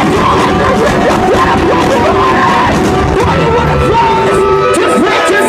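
Loud post-hardcore rock music with a voice singing and yelling over it.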